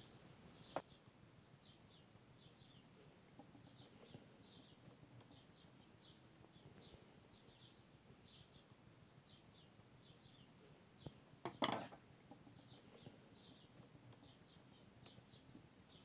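Near silence with small birds chirping faintly and repeatedly in the background. A light click about a second in and a short clatter about two-thirds of the way through come from hands working wires and a screwdriver at a plastic screw terminal block.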